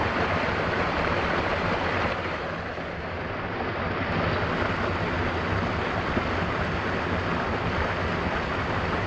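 Mountain waterfall: a steady rush of falling water, easing slightly for a moment about three seconds in.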